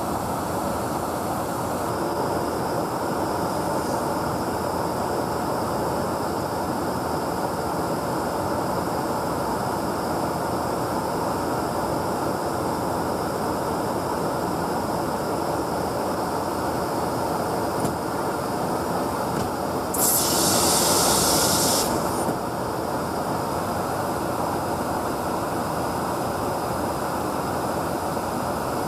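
Steady in-flight noise of a KC-135 Stratotanker, an even rush of airflow and engine noise. About 20 seconds in, a loud hiss cuts in for about two seconds and then stops.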